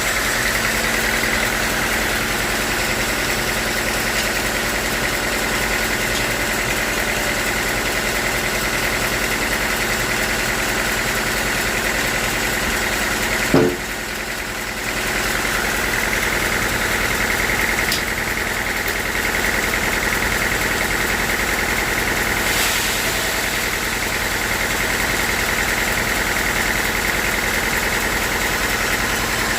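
Sawmill machinery running steadily: an engine-like drone with a high whine over it, and one sharp knock about halfway through.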